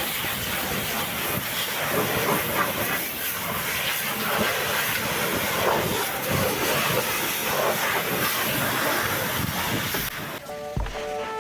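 High-pressure water jet hissing steadily as it sprays down a truck engine, with an uneven splashing rumble underneath. It cuts off abruptly near the end, and music comes in.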